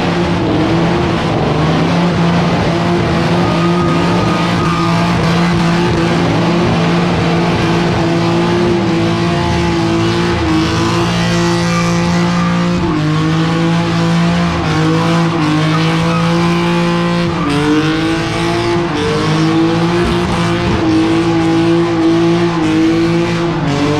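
Car engine held at high revs for a long stretch, its pitch dipping briefly and climbing back a couple of times, over tyre squeal: a car doing a burnout or drift.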